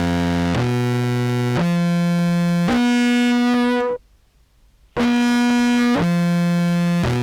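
Contrabass clarinet samples in the instrument's higher register, played through an effects pedal chain: a phrase of held notes about a second each, stepping up in pitch, a short break about four seconds in, then a new phrase. Any cut in headroom from the envelope filter is negligible, if noticeable at all, in this register.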